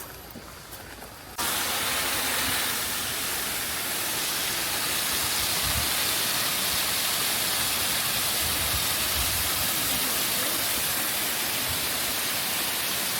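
Steady rushing, hissing noise of falling or spraying water, starting abruptly about a second and a half in.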